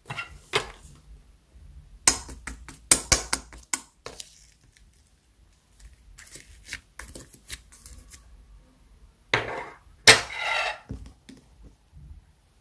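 Hands squishing and poking slime: clusters of sharp, sticky pops and clicks, then two longer crackling squishes near the end.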